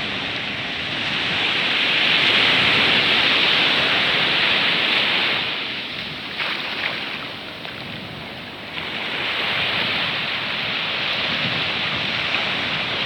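Sea surf and rushing water: a steady hiss that swells, eases off about halfway through, then builds again.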